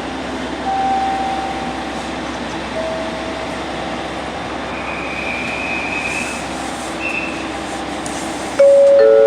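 JR Shikoku 8600 series express train standing at a station platform with a steady hum of its running equipment and air conditioning, and a few faint held tones. Near the end a loud two-tone electronic chime starts up, repeating, as the doors are about to close.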